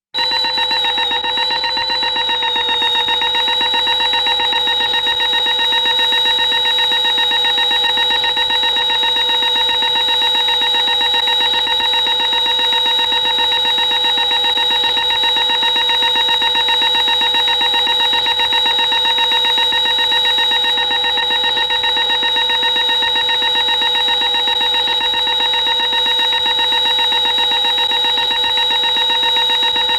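Horror sound effect: a loud, shrill tonal drone of several steady pitches layered together. It starts abruptly and is held without a break.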